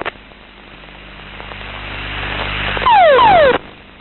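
Cockpit noise recorded on a CT-155 Hawk's cockpit voice recorder, rising steadily for about three seconds, then a loud, brief burst with two falling tones that cuts off abruptly, during the crew's ejection after an engine failure.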